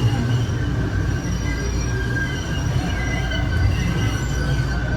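MBTA Green Line light-rail car's steel wheels squealing in steady high tones as it rounds the curve of the Park Street loop, over the low rumble of the car running on the rails.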